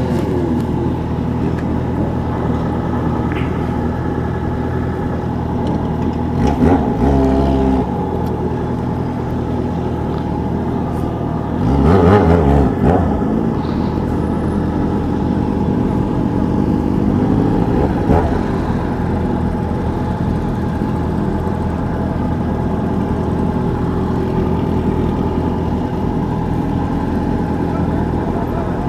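Motorcycle engine running at a steady high speed. It rises briefly about seven seconds in, and again about twelve seconds in, where the pitch sweeps as another vehicle passes close by.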